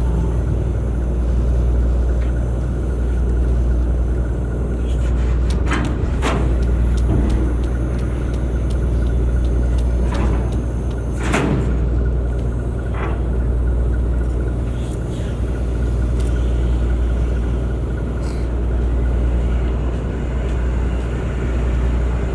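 Ship's diesel engines on a car ferry running with a steady low rumble, with a few sharp knocks, the loudest about eleven seconds in.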